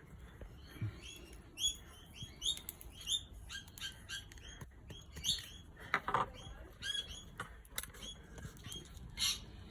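Small birds chirping rapidly, short high hooked notes several times a second, with scattered light clicks.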